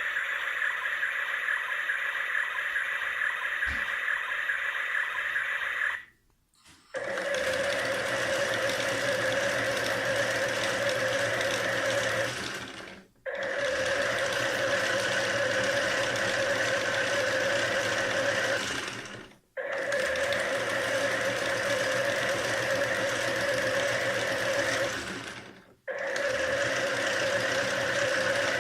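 Battery-powered toy washing machine's small electric motor whirring steadily as it turns the drum. It stops four times, about every six and a half seconds, and starts again each time.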